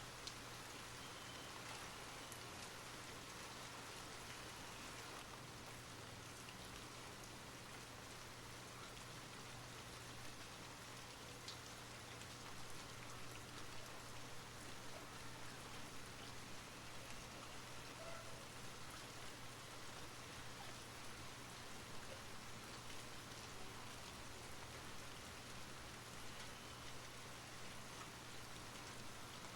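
Steady rain falling, with individual drops ticking now and then over an even hiss.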